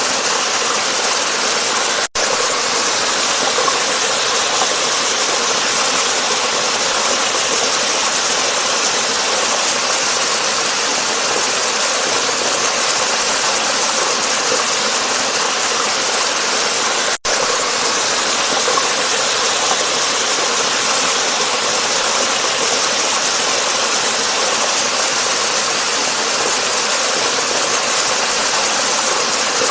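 Waterfall: a steady, even rush of falling water that drops out for an instant twice, about two seconds in and about seventeen seconds in.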